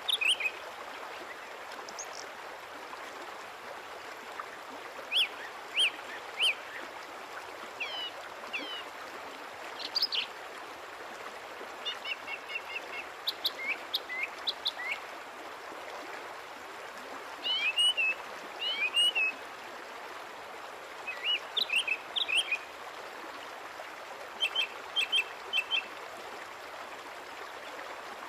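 Small birds chirping: short, high chirps and quick runs of chirps scattered throughout, over a steady background hiss.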